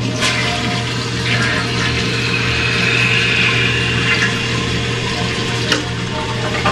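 A Ferguson toilet flushing: a steady rush of water from the tank into the bowl as the tank begins to refill through its Ferguson ballcock. There are sharp clicks at the start and a little before the end.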